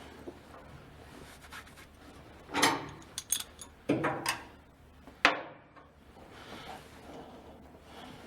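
A few knocks, scrapes and sharp clicks of hand work on a propeller shaft coupling as its bolts are fitted, the loudest a scrape about two and a half seconds in and a sharp click a little past five seconds.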